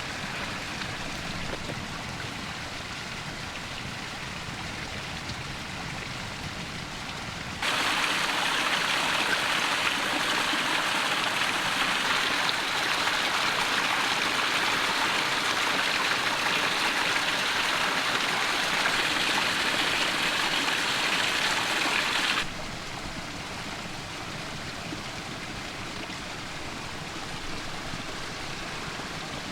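Small creek running, a steady rushing of water. About eight seconds in it jumps suddenly louder and brighter, then drops back just as suddenly about seven seconds before the end.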